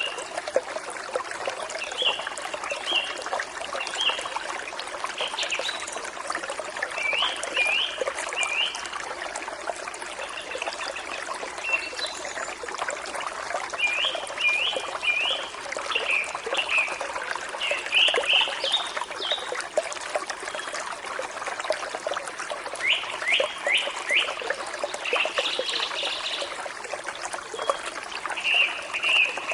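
Forest stream trickling and splashing steadily, with songbirds chirping in quick runs of two to four short, falling notes, repeated every second or two.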